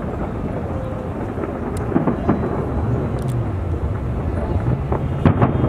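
Fireworks bursting overhead: a continuous low rumble of booms, with sharper bangs about two seconds in and again near the end.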